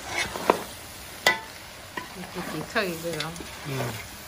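Food sizzling as it is stir-fried in a large metal pan, with a wooden spatula scraping and knocking against the pan a few times in the first couple of seconds.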